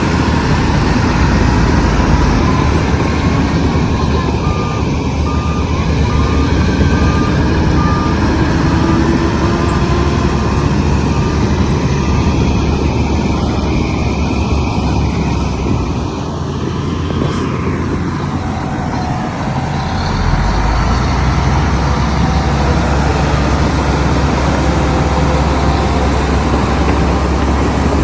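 Heavy diesel machinery engine running steadily under load, easing off about two-thirds of the way through and then coming back up. A reversing alarm beeps repeatedly over it for several seconds in the first half.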